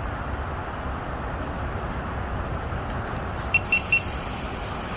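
Three quick, identical electronic beeps about three-quarters of the way through, from the FPV drone gear as the pilot checks whether the mud-covered quad will still arm. Under them, a steady low outdoor rumble.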